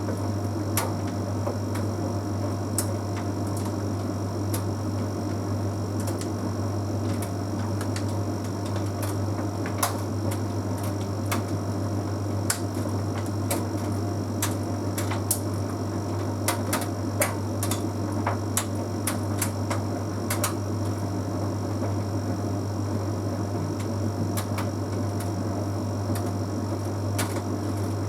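Bosch Series 6 heat pump tumble dryer running mid-cycle: a steady low hum with frequent irregular light clicks and taps as the load tumbles in the drum.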